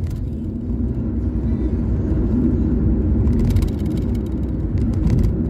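Suzuki SX4 driving at road speed: a steady low rumble of engine and tyres, with a few short clicks in the second half.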